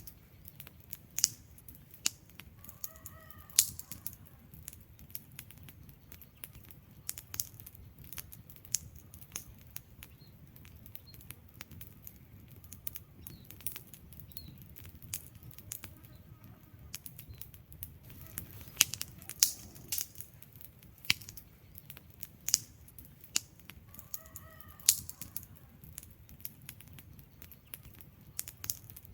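Wood fire in a fireplace crackling, with irregular sharp pops and snaps over a low steady rumble of the flames. A faint short tonal sound occurs twice.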